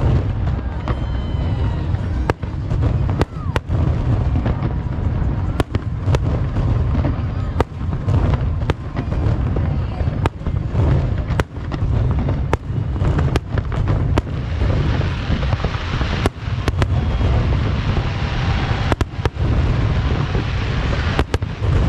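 Fireworks display: a rapid, irregular string of sharp bangs over a continuous heavy rumble. The higher hiss thickens from about two-thirds of the way in.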